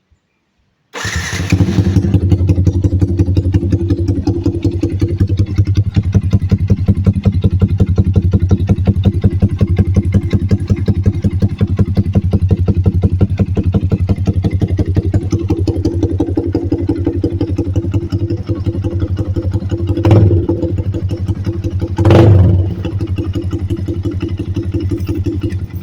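Yamaha Vixion's 150 cc single-cylinder four-stroke engine breathing through an aftermarket SC Project exhaust: it starts about a second in and settles into a steady, rapidly pulsing idle. Near the end it is blipped twice briefly, then shuts off.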